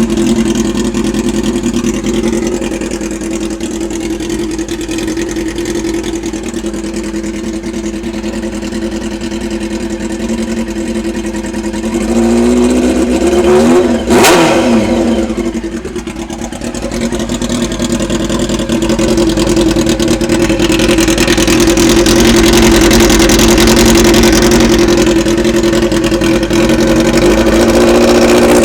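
Yamaha R6 inline-four engine running through an open straight-pipe exhaust: a steady idle, then a rev that rises and falls about halfway through with a single sharp crack at its peak. In the second half it holds a steady, louder, higher-revving note.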